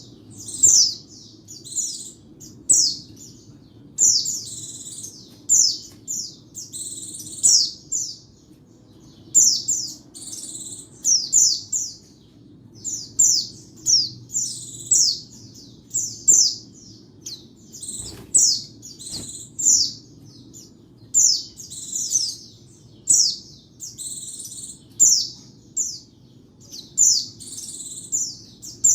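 White-eye (pleci) singing: quick clusters of high, thin chirps, each note sweeping downward, repeated every second or so.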